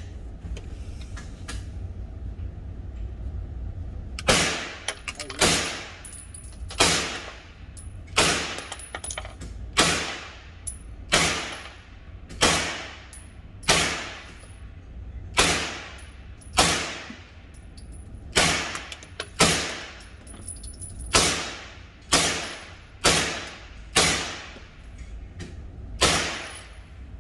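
About eighteen single gunshots from a semi-automatic firearm, fired at a steady pace of roughly one a second starting about four seconds in. Each shot has a ringing tail that dies away before the next.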